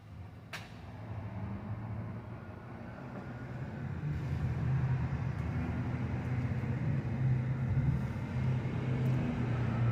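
Low rumble of a motor vehicle's engine, growing louder over the first few seconds and then holding steady, with one sharp click about half a second in.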